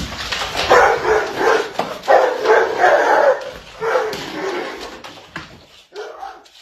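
A dog vocalising in a run of drawn-out, wavering calls between barking and whining, about a second each, with a shorter one near the end.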